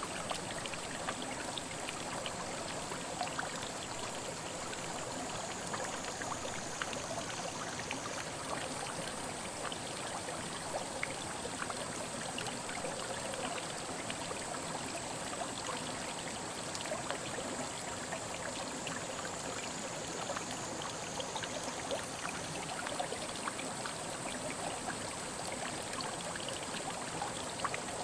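A small mountain headwater stream running over rocks: a steady rush of water with many small splashes and drips. A thin, high, steady tone runs above it and shifts slightly in pitch twice.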